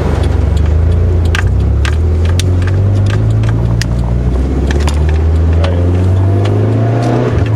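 Nissan 240SX's 2.4-litre four-cylinder engine running cold on a test drive, with a steady low engine note that climbs in revs toward the end. It has a new coolant temperature sensor fitted to cure rich-running exhaust pops on a cold engine.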